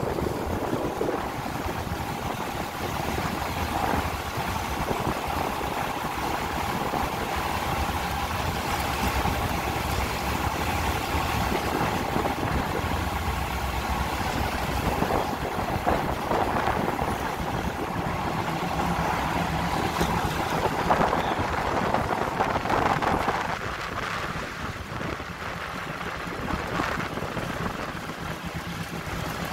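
Commuter train running along the track, heard from an open coach window: steady rumble of wheels on the rails with wind on the microphone and a steady high whine that drops away about three-quarters of the way through.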